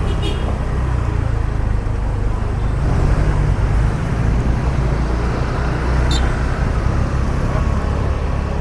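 Steady low rumble of a car's engine and road noise heard from inside the moving car, with a brief high chirp about six seconds in.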